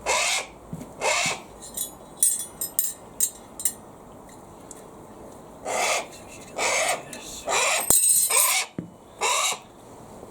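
A Harris hawk gives a series of harsh, raspy calls, about seven of them, each about half a second long, with a pause in the middle. A few faint clicks fall during the pause, and a sharp click comes near the end.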